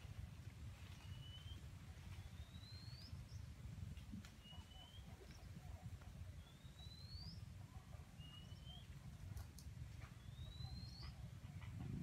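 A bird singing a repeated two-part whistled phrase: a rising whistle, then about two seconds later a shorter, lower whistle, the pair coming roughly every four seconds. Under it runs a faint, steady low rumble.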